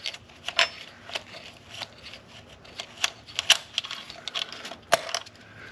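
Irregular light clicks and small metallic taps as a fitting is unscrewed by hand and parts are handled in a tight spot in the engine bay.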